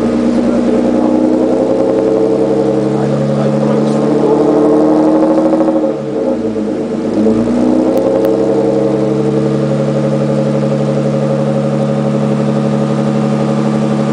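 Tuned BMW 2.8i straight-six in a rally Land Rover, heard close to its exhaust outlet, running at a steady note. About six seconds in the revs fall away briefly and climb back, then hold steady again.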